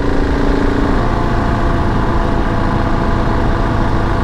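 KTM 690 Enduro R's single-cylinder engine running steadily while riding at road speed, mixed with a steady rush of wind and road noise.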